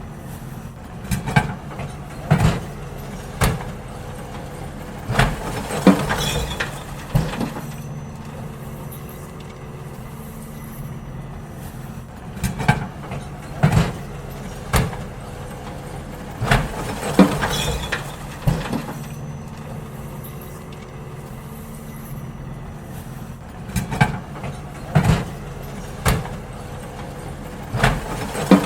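Garbage truck emptying bins: its diesel engine runs steadily while clusters of loud clanks and bangs come every few seconds as bins are tipped, with quieter stretches of engine alone between.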